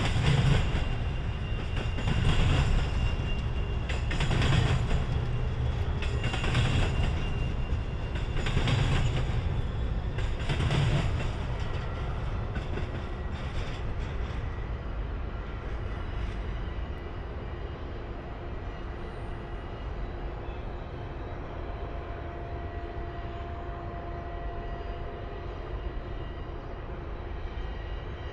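Double-stack container train rolling past. Its wheels give a regular loud pulse about every two seconds for the first eleven seconds or so, then settle into a steadier, fainter rumble.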